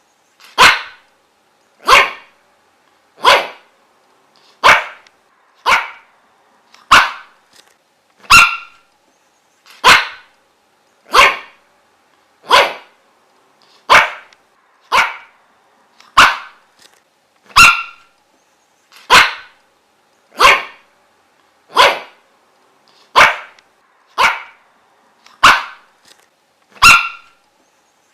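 A dog barking single short, sharp barks at a steady pace, about one every second and a quarter, over and over.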